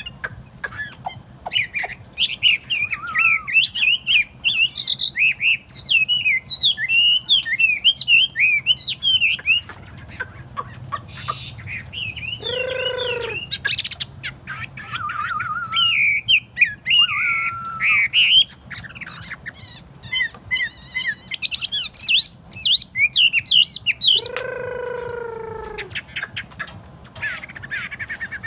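Chinese hwamei (họa mi) singing: quick, varied warbling phrases, twice broken by a loud, drawn-out falling whistle, over a faint steady low hum.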